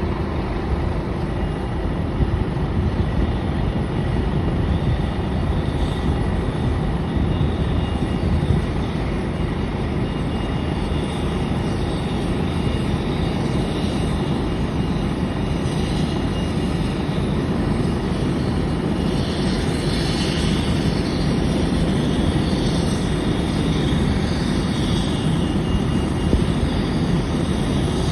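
Steady low rumble of a Boeing 737-8 airliner on the ramp during pushback, with a faint steady high whine. The hiss grows a little brighter about two thirds of the way through.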